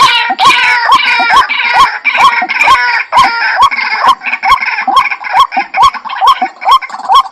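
White-breasted waterhen calling: a short note rising in pitch, repeated about twice a second, over a dense layer of higher overlapping calls that thins out about four seconds in.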